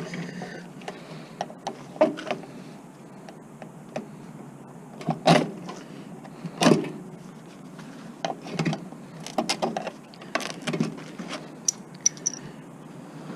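Scattered clicks, knocks and clatter of hand tools and small parts being handled while an electronics unit is taken apart for scrap, with a few louder knocks and a quick run of small clicks near the end.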